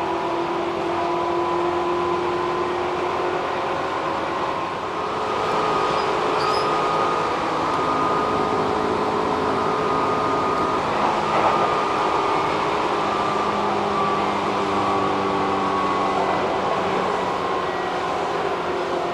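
Running noise inside a moving electric train, with several steady motor tones that drift slowly up and down in pitch.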